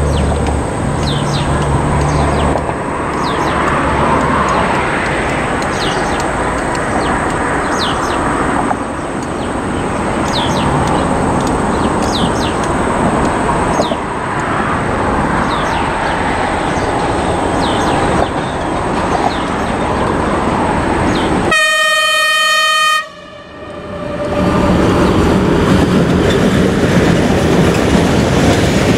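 China Railways HXD1C electric locomotive hauling a long freight train of open wagons past: steady rolling rumble and clatter of wheels on rail. About three quarters of the way through, one horn blast of about a second and a half, after which the sound drops out briefly before the wagons roll on.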